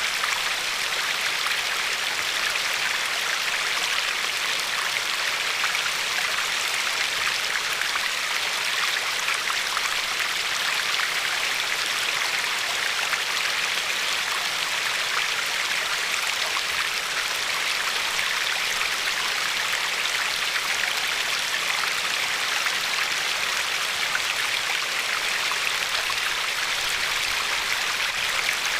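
River water flowing and lapping gently along a pebble shore: a steady, unbroken rushing hiss.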